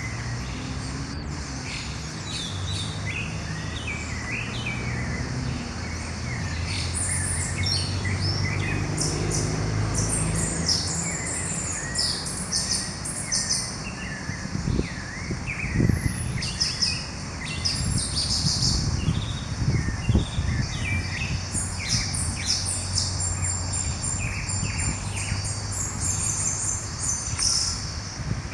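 Dawn chorus: several birds chirping and singing at once, many short overlapping calls and trills, over a steady low rumble. A couple of low thumps about halfway through.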